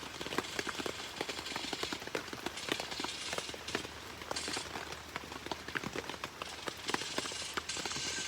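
Rain falling, with dense irregular drop impacts and a few stretches of louder hiss.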